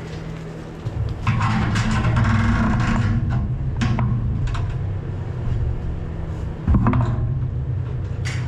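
Farm machine engine running, getting louder about a second in, with metal scraping and a few sharp clanks.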